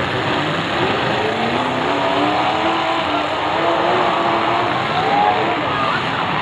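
Engines of several demolition derby cars running together in a loud, dense din, their revs rising and falling as the cars drive and manoeuvre on the dirt.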